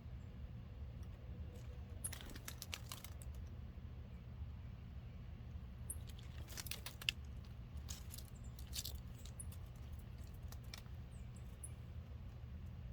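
Clusters of sharp clicks and taps, typical of birds pecking and scratching at seed in a log feeder, with a few brief high chirps, over a steady low rumble.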